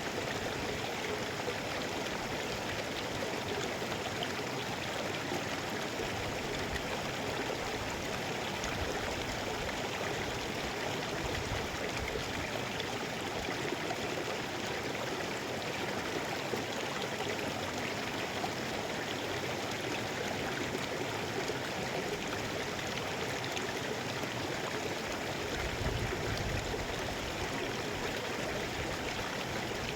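Mountain river flowing steadily, an even rush of water noise with no letup. A brief low rumble comes in near the end.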